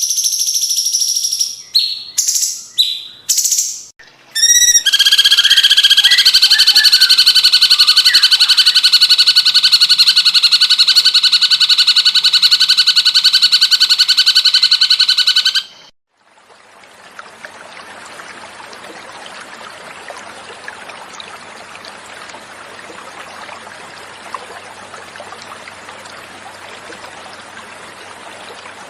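Cucak cungkok bird calling: a few short high notes, then a loud, even, rapid trill held for about eleven seconds. It breaks off suddenly, and after a moment the steady sound of running water takes over at a lower level.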